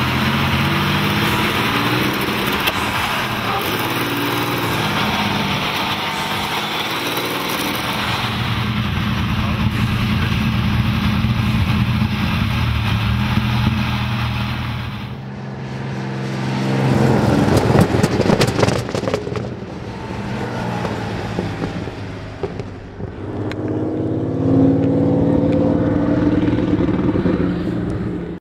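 Rolls-Royce Hurricane's 27-litre V12 aircraft engine running hard as the car drives at speed. The note changes partway through, is loudest a little past the middle, and rises again near the end.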